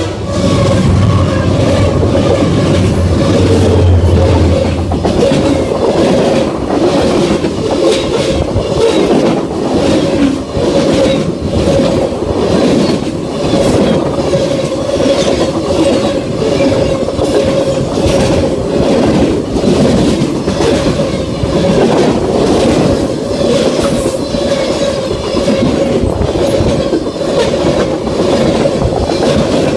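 CSX freight train passing close at speed: the diesel locomotive's deep engine rumble for the first few seconds, then a long run of open-top freight cars clattering past, wheels clicking rapidly over the rail joints. A steady high whine runs under it all.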